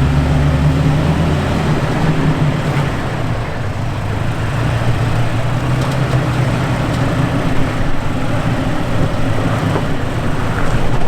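Off-road truck engine running at low revs, its pitch shifting a little as it is throttled, with rough mechanical and gravel noise.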